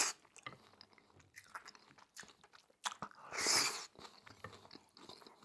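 Close-miked chewing of a mouthful of chicken yakisoba, with many small wet mouth clicks. There is one louder airy noise, under a second long, about three and a half seconds in.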